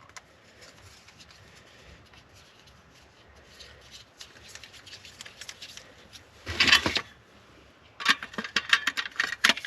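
Hand handling of a caulking gun and a new sealant cartridge: quiet rustling and scraping, one loud clack about six and a half seconds in, then a quick run of sharp clicks near the end.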